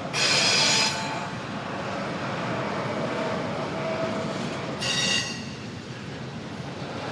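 Intermodal freight train cars rolling past with a steady rumble of wheels on rail. Two brief high-pitched wheel squeals come through, one at the start and a shorter one about five seconds in.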